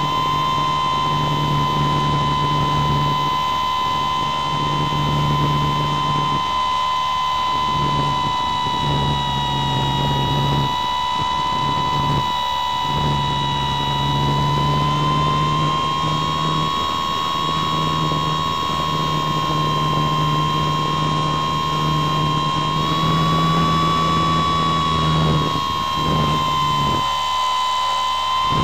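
A model glider's small electric motor and propeller whine steadily at a high pitch, heard through the onboard camera's microphone over rushing air. The pitch drifts only slightly, edging up and back down about two-thirds of the way in.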